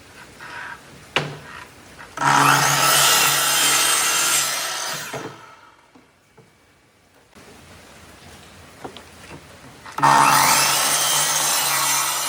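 Power tool cutting into wood in two passes of about three seconds each, each starting suddenly and tailing off, with a steady motor hum beneath; a sharp knock about a second in.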